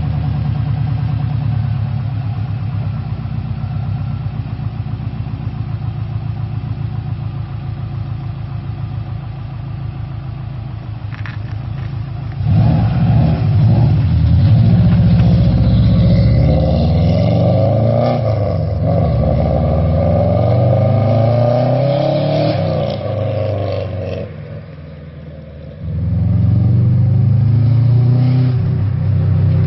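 A Subaru EJ22T turbocharged flat-four, breathing through a 3-inch catless exhaust with a fake-cob style muffler. It idles with an even pulse, then about twelve seconds in it gets louder and pulls hard, the pitch climbing several times over. Near the end it drops away for a couple of seconds, then climbs again.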